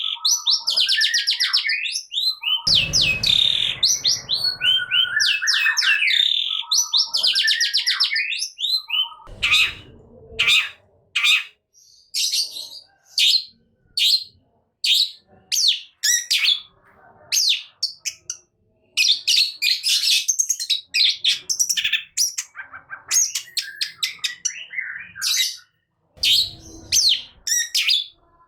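Long-tailed shrike (cendet) singing: fast trilled phrases in the first several seconds, then a long string of short, sharp, high notes, one or two a second. Low rumbles come in three times, at about three, ten and twenty-six seconds in.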